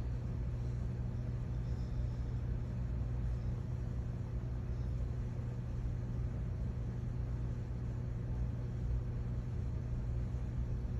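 Steady low rumbling hum of background noise, unchanging throughout, with no distinct sounds over it.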